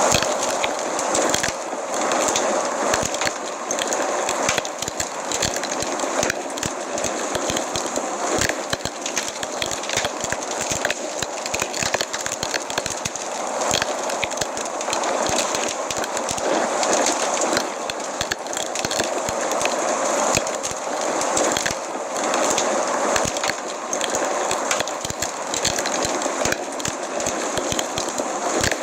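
Wood fire crackling steadily, a continuous hiss of burning with many small sharp pops and snaps.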